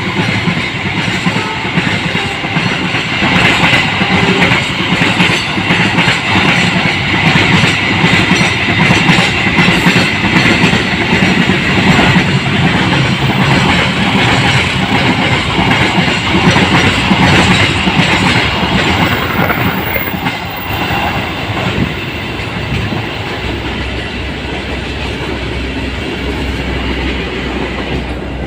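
A train rolling past at close range, its wheels clattering rhythmically over the rail joints. The sound gets quieter after about twenty seconds as the train moves off.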